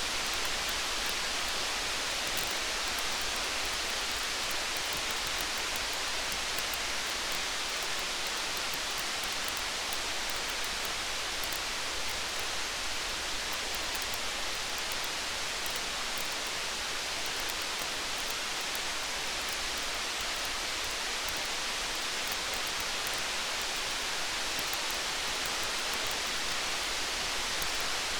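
Steady rain hiss with faint scattered ticks over it, an even, unchanging wash of sound.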